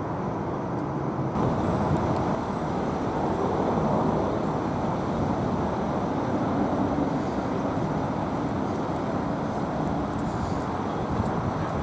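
Steady road traffic noise, vehicles passing on a busy road.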